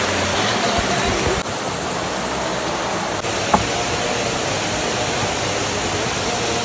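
Steady rush of flowing water, an even hiss with a single sharp click about three and a half seconds in.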